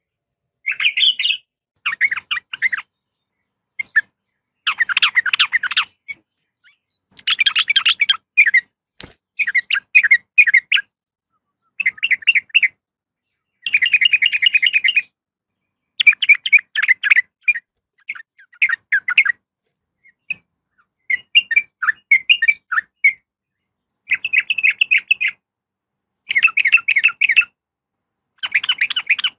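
Yellow-vented bulbul (trucukan) giving short chattering call phrases, about one every two seconds, each a quick run of bubbly notes. They are offered as a female calling for a male.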